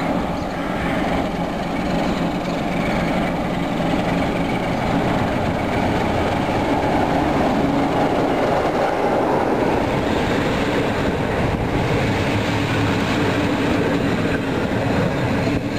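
A CFR class 62 diesel-electric locomotive, 62-1353-2, hauling a passenger train past at close range. Its engine grows louder as it approaches and is fullest around the middle as it passes. It then gives way to the steady rumble of the double-deck coaches' wheels running on the rails.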